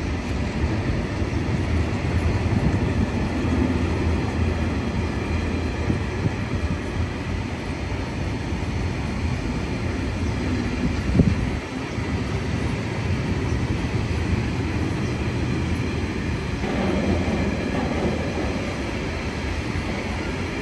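A train running at the station platforms, a steady low rumble without a clear rise or fade. A single sharp knock sounds a little past halfway.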